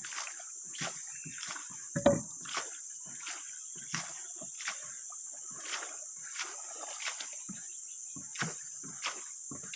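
Footsteps at a steady walking pace, a short knock roughly every half second or so, with one louder thump about two seconds in. A steady high insect drone runs underneath.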